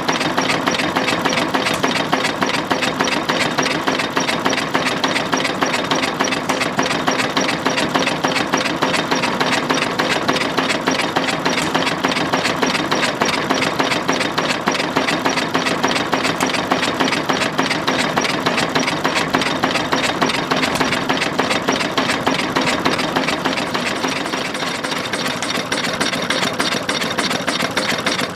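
Ruston & Hornsby 1XHR single-cylinder horizontal diesel engine running steadily with its open crank and valve gear clattering in fast, even ticks.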